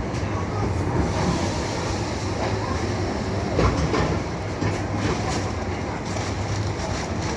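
Moving train car: a steady rumble from the running wheels, with occasional clacks as they pass over the rail joints.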